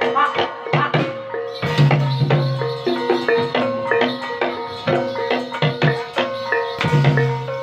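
Javanese gamelan music for an ebeg horse dance: keyed percussion instruments struck in a quick, repeating pattern over hand drumming, with a low gong tone sounding twice, about five seconds apart.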